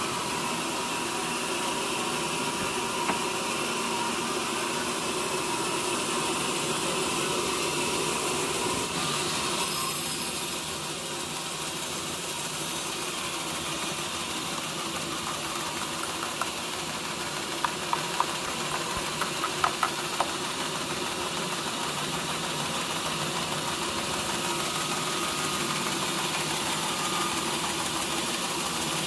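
Sawmill machinery running steadily with an engine hum, with a few sharp knocks about two thirds of the way through.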